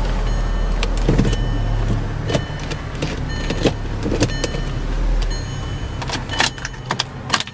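Volkswagen Passat's 2.0-litre turbocharged four-cylinder idling, heard from inside the cabin, with a steady low hum that changes about five seconds in. Over it come a series of sharp clicks as the automatic gear selector is moved through its positions and the stalk controls are worked, quickest near the end.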